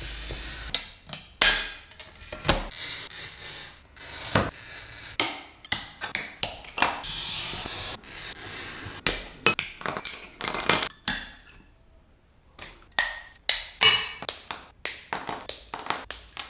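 Stained-glass sheets being scored and worked with a glass cutter: stretches of high scratchy hiss from the cutter wheel, and many sharp clinks and taps of glass pieces knocking together. The sound drops away briefly about twelve seconds in, then the clinks resume.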